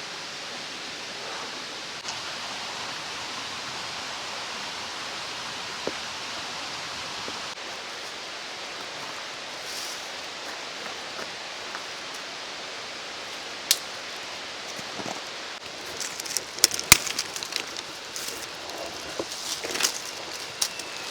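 Mountain stream rushing steadily, with a few sharp clicks and then a scatter of small snaps and knocks in the last few seconds.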